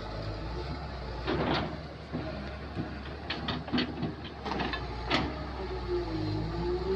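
Kobelco excavator running steadily while digging, with a cluster of metallic knocks about a second in and a run of quicker clanks through the middle.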